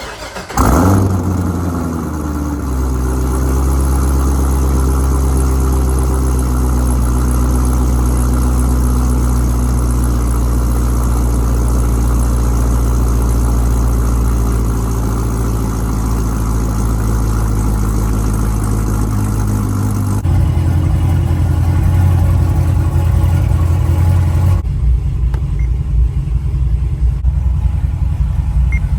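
2009 Corvette C6 ZR1's supercharged LS9 V8 starting: it catches with a brief rev flare about half a second in, then settles to a steady idle. About twenty seconds in the idle turns louder and deeper.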